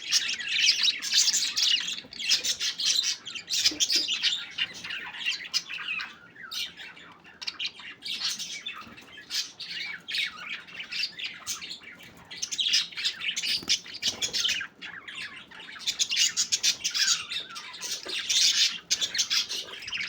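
Budgerigars chattering: a dense run of quick, overlapping chirps and squawks, busiest in the first few seconds and again in the second half.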